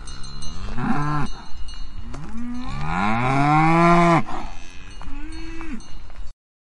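Cows mooing three times, the middle moo long and drawn out, with cowbells ringing steadily in the background. The sound cuts off suddenly near the end.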